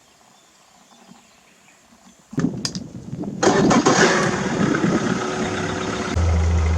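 A boat engine being started: it cranks and catches about two seconds in, runs loud and rough, then settles into a steady low idle near the end.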